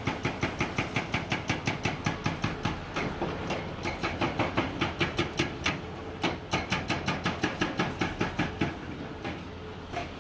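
Hydraulic breaker hammer on a Komatsu PC490 excavator pounding rock: rapid, even blows about five or six a second over the steady hum of the engine. The blows pause briefly twice, stop about nine seconds in, and one last blow comes near the end.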